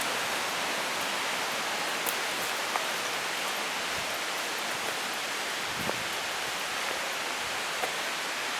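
Small mountain brook running: a steady rush of water, with a few faint ticks over it.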